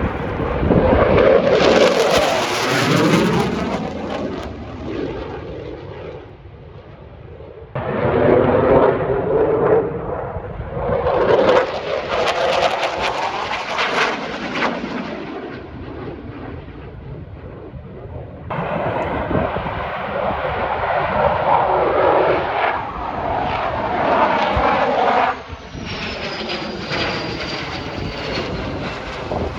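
Military aircraft flying past with loud engine noise that swells and fades, heard over several passes joined by abrupt cuts.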